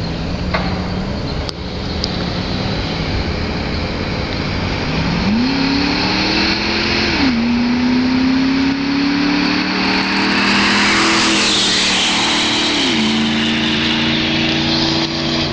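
Jeep Grand Cherokee's 5.2-litre V8 running through a dual exhaust with a modified intake. The revs climb about five seconds in, fall sharply twice (near the middle and near the end), and a rush of noise swells between the two drops.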